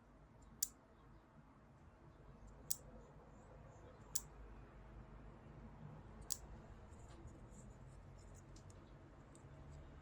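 Four sharp, light clicks spaced a couple of seconds apart, with a few fainter ticks near the end, over a faint low background hum: small parts being handled.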